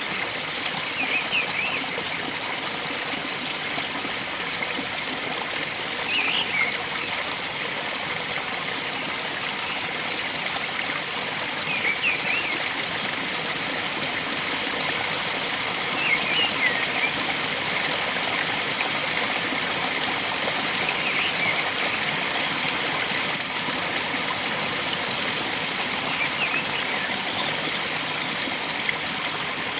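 Steady rush of flowing water, with a bird giving short chirping phrases about every five seconds.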